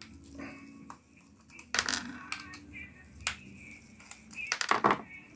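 Metal clipper parts being handled as the blade is swapped: a few sharp clicks and short scrapes, the loudest cluster near the end.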